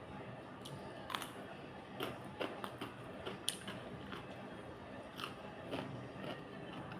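Close-up mouth sounds of a person chewing and biting food, with sharp clicks scattered irregularly through the chewing.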